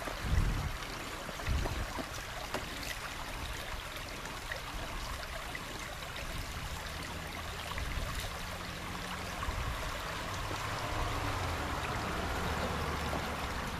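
Shallow creek water running and trickling over rocks, with a few low thumps in the first couple of seconds.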